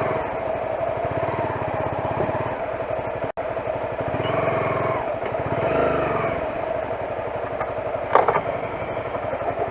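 Motorcycle engine running, its low firing pulses swelling and easing in stretches. A sharp clack comes about eight seconds in.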